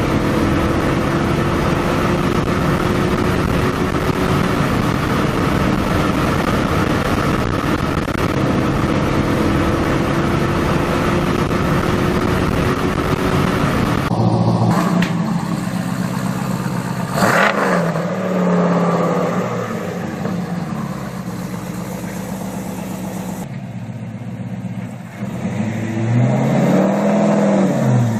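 Car engines running in successive clips: a steady, loud run with slowly rising pitch for about the first half, then, after a cut, other engines, ending with a single rev that climbs and drops back near the end.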